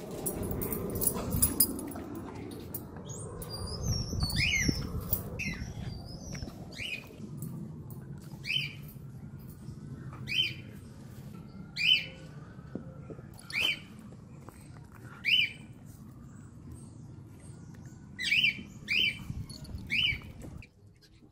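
A bird chirping: a short rising chirp about every second and a half, then three in quicker succession near the end, over the sound of a small dog chewing a treat close by.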